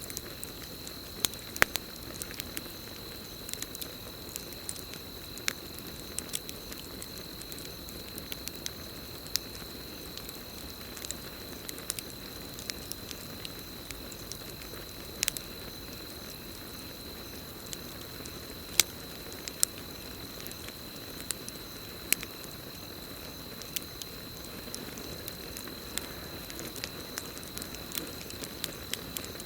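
Campfire burning: a steady low rush of flames with irregular sharp crackles and pops of burning wood. A continuous high, even cricket trill sounds throughout.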